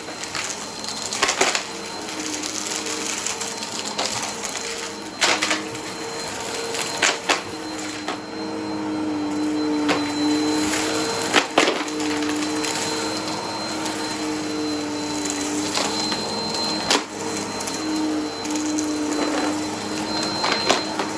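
Vacuum cleaner running with a steady motor hum and whoosh of suction, crunching and clicking as it sucks up debris, with sharp crackles scattered throughout.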